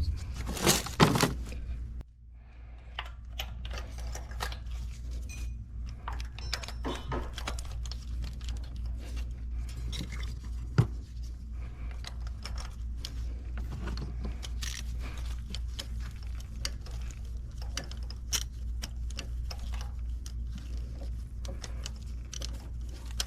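Metal hand tools clicking, clinking and scraping against engine parts during ignition and spark plug work, as small irregular clicks with one sharper knock about halfway through. A steady low hum runs underneath.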